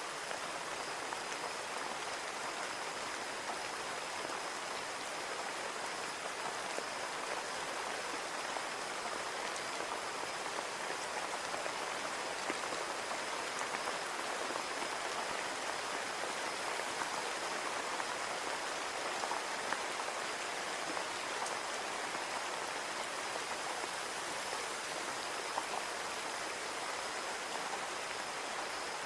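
Steady rain falling on a window, a dense, even patter of drops with a few sharper ticks.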